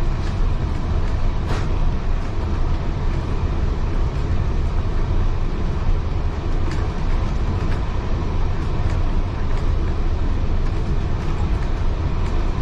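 Steady low rumble of a heritage railway carriage riding along the track, heard from inside, with occasional sharp clicks and knocks from the wheels and carriage.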